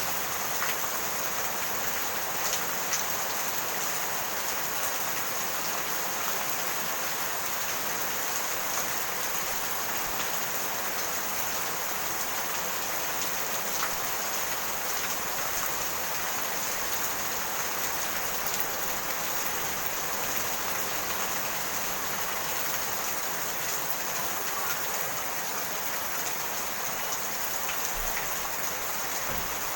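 Steady rain falling, an even hiss of many drops with occasional single drop ticks.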